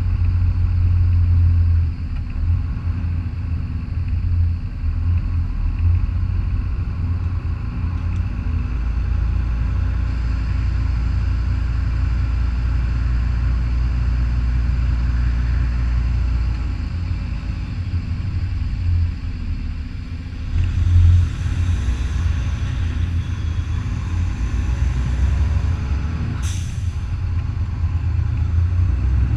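Semi truck's diesel engine running with a steady low rumble, and a hiss of air near the end.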